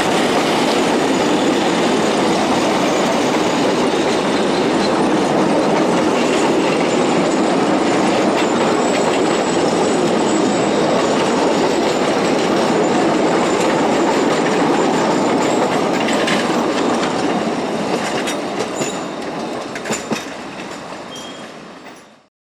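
Narrow-gauge train rolling along the track, its wheels rattling steadily over the rails. It fades over the last few seconds, with a few sharp clicks, then cuts off.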